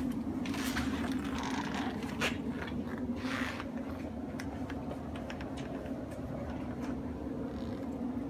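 Room tone: a steady low hum with scattered light clicks and two brief rustles, about half a second in and about three seconds in.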